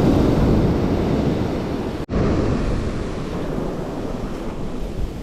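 Ocean surf washing onto a sandy beach, mixed with wind buffeting the microphone: a steady rushing noise, a little louder in the first two seconds, that cuts out for an instant about two seconds in.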